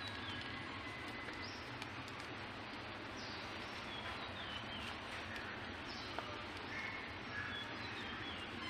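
Outdoor ambience: a steady hiss with short, high bird chirps that fall in pitch, repeating every second or two.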